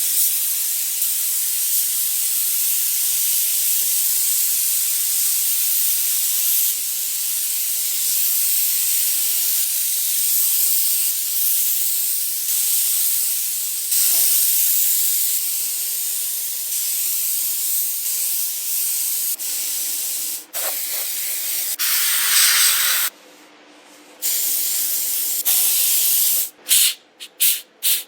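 Compressed-air paint spray gun spraying a steady hiss. Near the end the trigger is released for about a second, then pulled in several short bursts.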